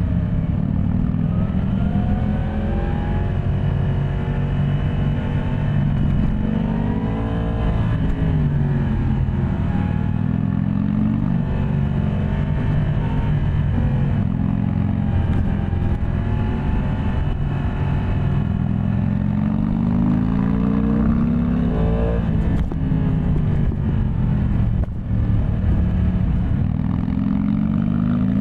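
Yamaha MT-10 SP's crossplane inline-four engine being ridden, repeatedly revving up and easing off, its pitch rising and falling many times.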